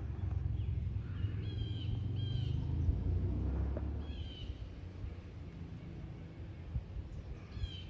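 Birds calling in short, high chirps about four times, over a low rumble that fades about halfway through.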